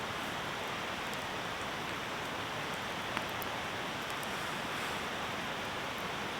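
Campfire burning, with faint scattered crackles and one sharp pop about three seconds in, over a steady rushing hiss.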